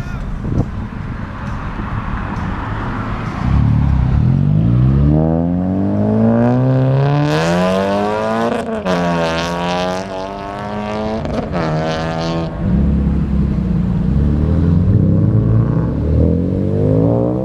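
Car engines accelerating hard one after another. A few seconds in, a car pulls away with rising revs, shifts up once about halfway and revs up again. Near the end another car's revs start climbing.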